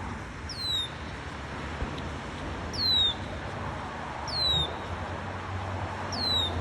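A bird calling: four short, high, down-slurred whistles, evenly spaced about every second and a half to two seconds, over a steady low rumble.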